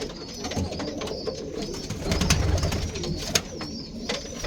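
Domestic pigeons cooing in a loft, low wavering calls going on throughout, with some higher chirps. A few sharp clicks come through, the loudest about two seconds in and just after three seconds.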